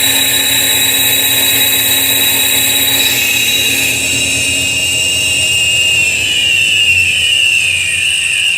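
Iveco alternator with an overrunning (freewheel) pulley being spun on a test bench, a steady mechanical running sound with a high whine; over the last few seconds one whining tone slides lower in pitch. The pulley is faulty and slipping, and the run is a test to catch the rotor stopping while the pulley keeps turning.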